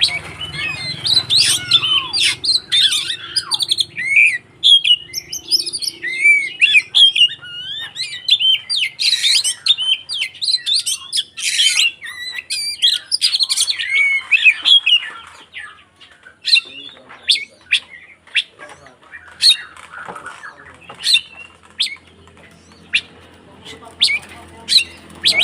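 Oriental magpie-robin (kacer) singing in excited fighting mode: a fast, varied run of whistles, rising and falling glides and harsh notes, thinning out after about fifteen seconds into scattered sharp chips.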